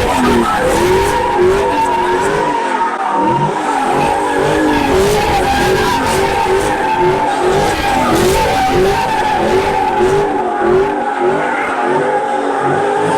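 A car drifting in circles: tyres squealing continuously while the engine's revs rise and fall over and over.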